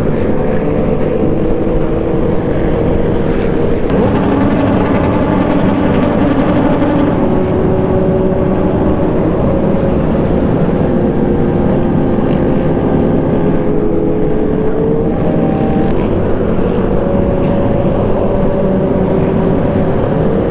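Kawasaki Z125's small single-cylinder engine running while the motorcycle cruises, with heavy wind rush on the microphone. The engine's pitch holds steady, shifting slightly a few times.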